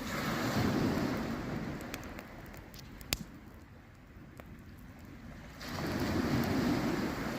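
Campfire crackling with a few sharp pops, the sharpest about three seconds in, over two long swelling rushes of noise: one at the start that fades within two seconds, another that rises about five and a half seconds in.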